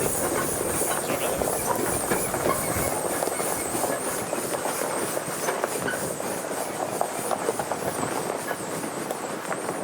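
Steam traction engine running along the road, a steady mechanical clatter and rumble with a continuous high warbling whine over it.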